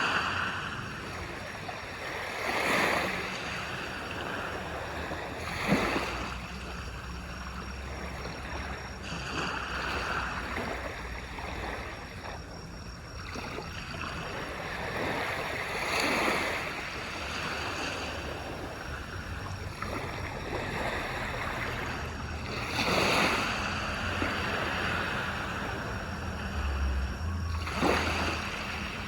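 Small waves breaking and washing up a beach, one surge every few seconds over a steady hiss of surf, with a sharper slap of water twice.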